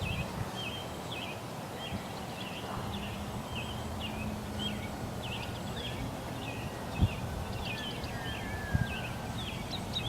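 A bird chirping over and over, short high calls about two a second, with a few low thumps of wind on the microphone.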